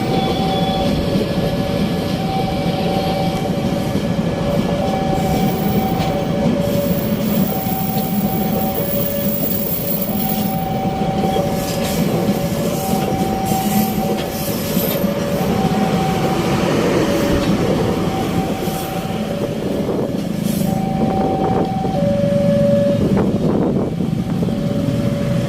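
A locomotive-hauled passenger train running past with a steady, loud rumble of engine and wheels. Through it sounds a two-note tone alternating evenly, each note lasting about a second.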